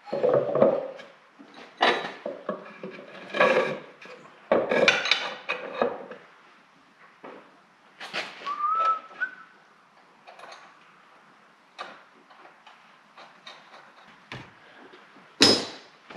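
Scattered knocks, scrapes and rustles of hand work on a wooden block, with a short rising whistle about halfway through and a sharp clatter near the end.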